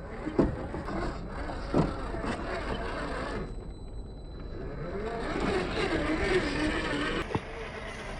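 RC scale crawler's electric motor and geared drivetrain whining, the pitch rising and falling with the throttle, with a few sharp knocks as the truck's tyres and chassis hit the rocks.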